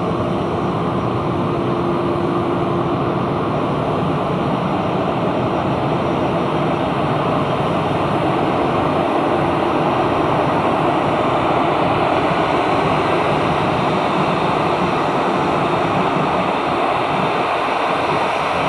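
Aircraft engine running steadily at low power as the plane is parked, a loud, even noise with a faint hum coming and going.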